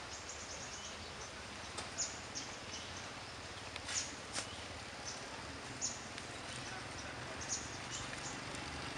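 Quiet outdoor background with faint, short, high chirps scattered irregularly throughout, typical of small birds calling.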